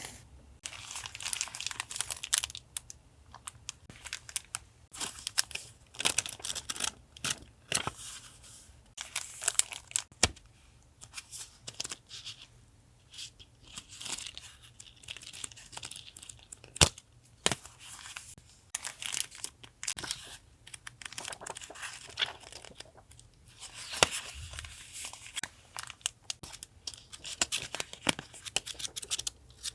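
Paper and stickers being handled close up: irregular rustling, crinkling and tearing, with a few sharp taps.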